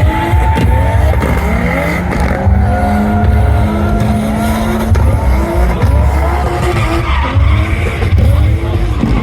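Drift cars' engines revving up and down again and again, with tires squealing as they slide.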